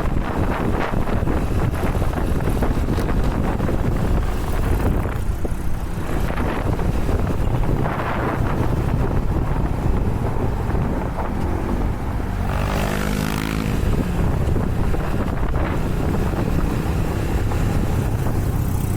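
Wind rushing over the microphone with a motorcycle engine running underneath while riding. About two-thirds of the way through, a pitched, wavering tone rises over it for a second or two.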